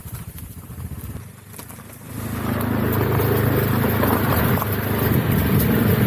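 Motorcycle engine running under way; about two seconds in it gets louder and then holds steady.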